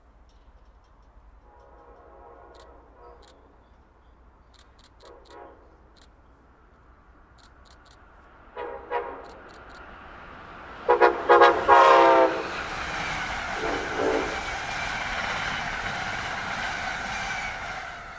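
Train horns: faint short blasts at first, then loud repeated blasts about eleven seconds in, as a train of stainless-steel passenger cars passes on the main line with a steady rushing of wheels on rail that begins to fade at the very end.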